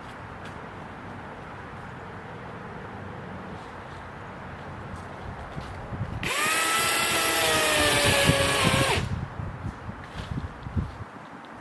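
DeWalt cordless electric chainsaw cutting into wood for about three seconds, its motor whine sagging slightly in pitch under load over the chain noise, then stopping suddenly. A few dull thumps follow.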